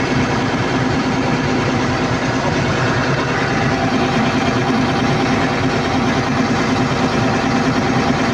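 Diesel engine of a Caterpillar 320D2 L excavator running steadily, a constant low drone with no change in speed.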